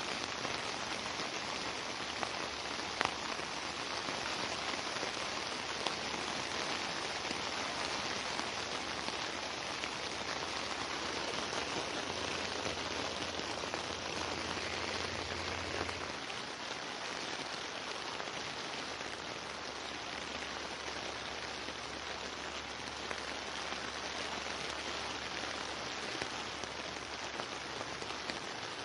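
Steady rain falling on a surface, an even hiss of drops with a couple of sharper drop ticks in the first few seconds.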